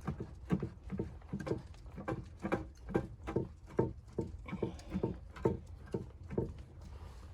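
Footsteps in snow at a steady walking pace, about two steps a second, stopping about six and a half seconds in.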